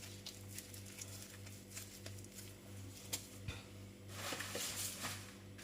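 Faint kitchen room tone: a steady low hum with small scattered clicks, one sharper click about three seconds in, and a soft hiss rising after about four seconds.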